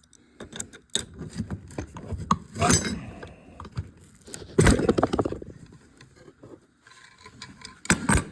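Metal hand tools and a gear puller clinking, scraping and knocking on a hydraulic pump as a tight-fitting part is worked off its shaft. There are scattered light clicks, two longer rattling scrapes, and a pair of sharper knocks near the end.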